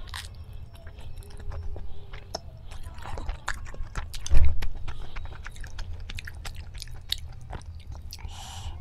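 Close mouth sounds of a person eating instant ramen noodles: a bite of a mouthful of noodles, then steady chewing with many small wet clicks. A brief low thump about four and a half seconds in is the loudest sound.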